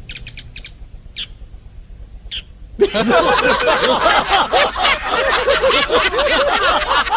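A few short bird chirps, then about three seconds in a crowd of people suddenly breaks into loud chatter and laughter.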